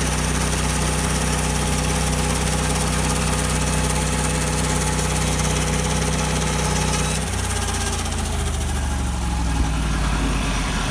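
Portable bandsaw mill's engine running steadily over a high hiss. About seven seconds in, its note drops and wavers and the hiss eases.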